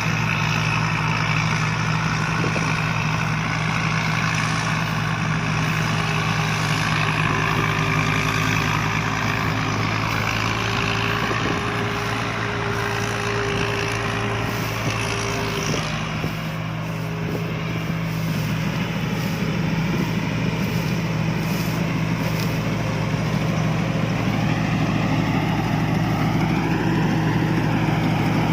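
Combine harvester engine running steadily with an even low hum. It eases off slightly a little past halfway, then picks up again near the end.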